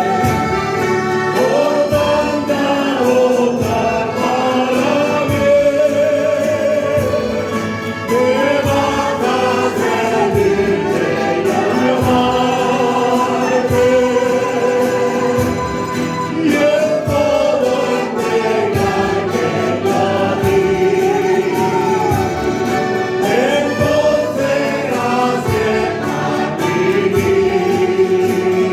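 Church choir singing a hymn together, with instrumental accompaniment keeping a steady beat.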